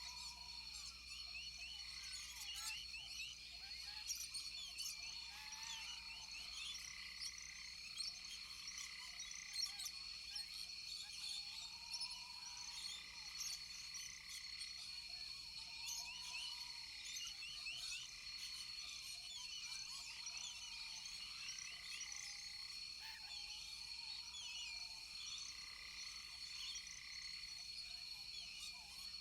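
Rainforest chorus of calling frogs and insects: a steady high-pitched trill under many quick chirps, with a lower arched call repeating now and then.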